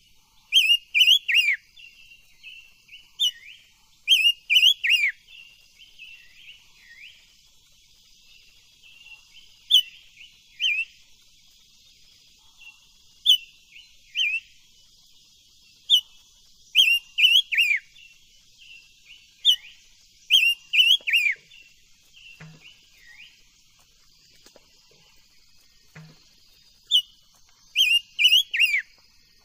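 Silver-eared mesia singing: short phrases of clear whistled notes, many sliding downward, repeated every second or two with a few longer pauses.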